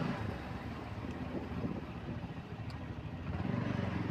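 Motorcycle engine running at low speed under wind noise on the rider's microphone, growing louder about three seconds in.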